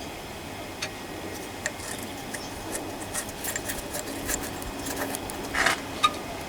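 Light scattered clicks and taps of small engine parts being handled and fitted, with a brief scrape near the end and then a sharper click.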